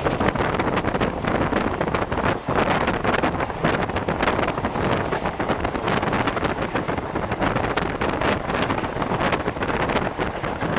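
Express train running through a station at full line speed: a steady rush of wheels on rail, with wind buffeting the microphone.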